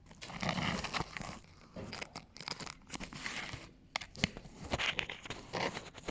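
Fingers scratching a pet's fur: close, irregular rustling and scratching with a few sharp clicks.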